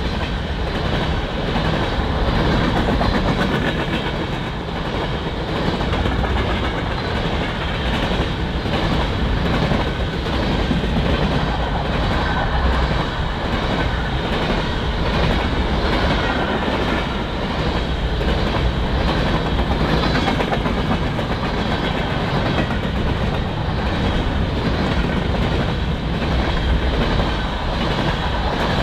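Freight train cars rolling steadily past, their wheels clicking over rail joints in a repeating rhythm.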